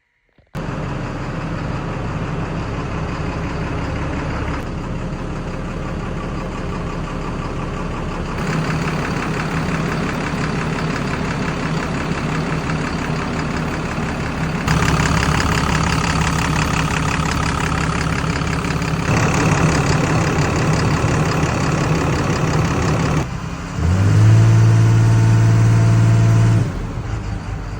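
Cummins QSB6.7 six-cylinder diesel of a JCB 427 wheel loader running, its sound changing in abrupt steps in level and pitch. About 24 s in a loud low hum slides up, holds for a few seconds and cuts off.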